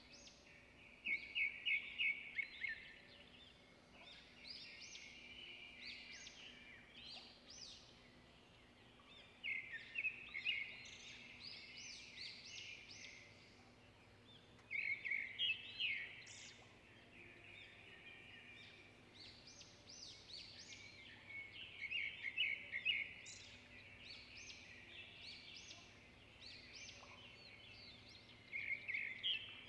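Songbird singing: bouts of fast, chattering trills with sharper higher notes, repeating about every six seconds.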